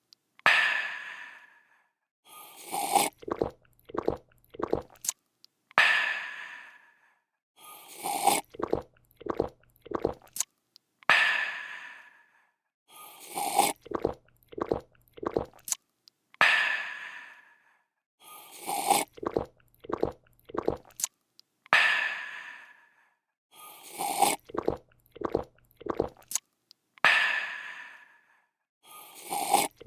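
Looped drinking sound effect: a person taking a run of quick gulps, then letting out a long breathy, refreshed "aah" that fades away. The cycle repeats about every five seconds.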